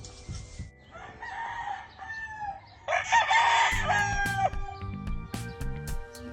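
Gamefowl rooster crowing twice: a softer crow about a second in, then a louder crow right after it.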